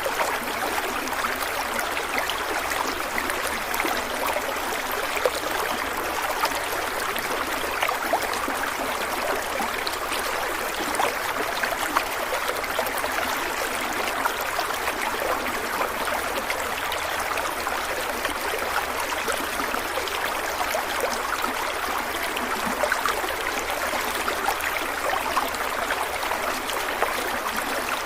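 Shallow stream water running steadily over rocks, a continuous rush with many small splashes and trickles.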